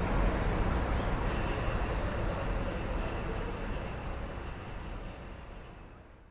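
Steady outdoor street noise: traffic rumble and hiss, with a faint thin high whine coming in about a second in, the whole fading out gradually to silence.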